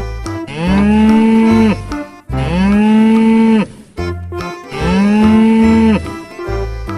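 Cow mooing three times, three identical long moos, each rising and then holding before it drops off, with light background music and a beat playing between them.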